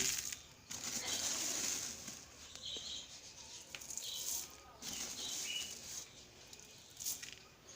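Sunflower seeds being poured and stirred by hand into a mix of dry bird seed and paddy: a dry, rattling rustle that comes in several uneven bursts.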